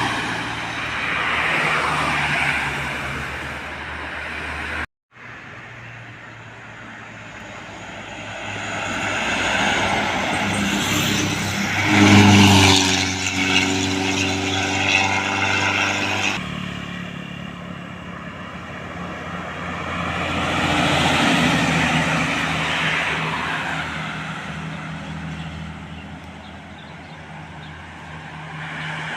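Heavy road traffic passing close by, mostly trucks: the diesel engine and tyre noise swells and fades as each vehicle goes past, loudest about twelve seconds in. The sound drops out briefly about five seconds in and changes abruptly near sixteen seconds.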